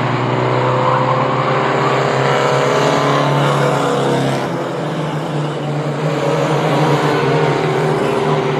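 Engines of a pack of racing trucks running together around a short oval, several at once at different pitches, their revs rising and falling through the corners.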